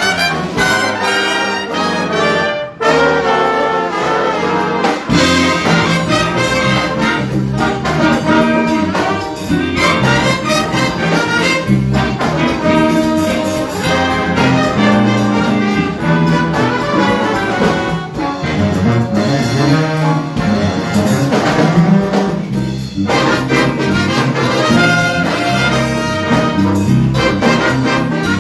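High school big-band jazz ensemble playing, with trombones and trumpets to the fore. There is a brief dip near the start, and the bass end fills in about five seconds in.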